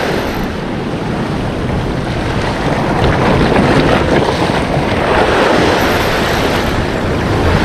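Sea waves washing against the shore, with wind buffeting the microphone in a steady low rumble.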